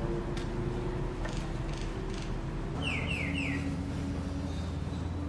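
A bird calls three quick whistled notes, each gliding down in pitch, about three seconds in. Underneath are a steady low hum and a few faint clicks as the inverter's board and case are handled with a screwdriver.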